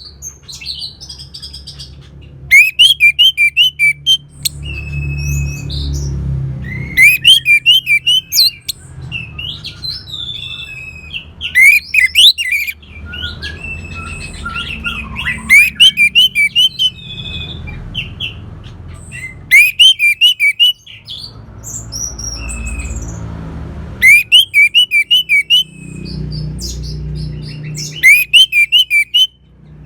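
Orange-headed thrush singing: loud phrases of rapid, high notes repeated about every four to five seconds, with softer varied notes between them and a low rumble underneath.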